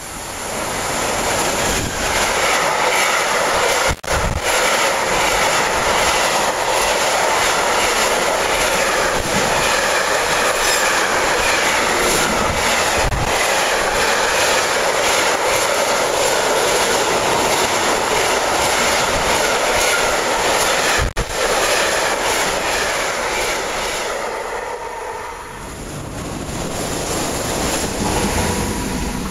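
Freight train of container and tank-container wagons passing close at speed over a steel truss railway bridge: loud, steady wheel rumble and rattle with clickety-clack. Near the end it fades, and another train hauled by two red electric locomotives grows louder as it comes by.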